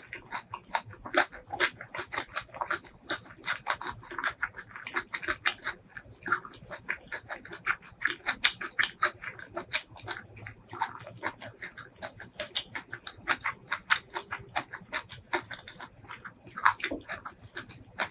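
Close-miked eating sounds of a person chewing: a dense, irregular run of short clicks and smacks, several a second.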